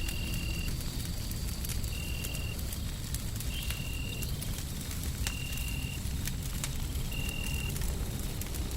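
Wood fire crackling with scattered sharp pops over a steady low rumble of white noise. A short, faint high tone repeats about every second and a half.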